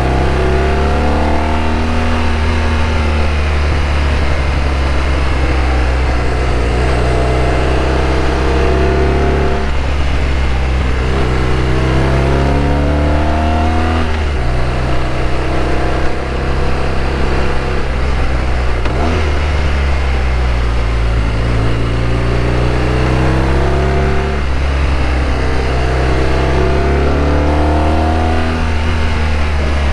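BMW R1200RT's flat-twin engine under way, its pitch rising and falling again and again as the rider opens and eases the throttle, over wind and road noise.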